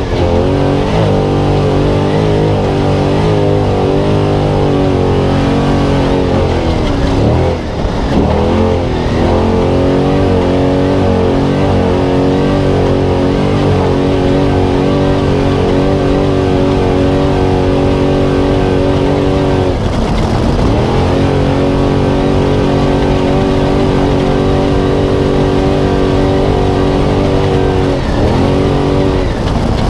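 Spec trophy truck's V8 engine heard from onboard, running hard at steady high revs. The revs drop off and climb straight back about seven seconds in, again around twenty seconds, and near the end.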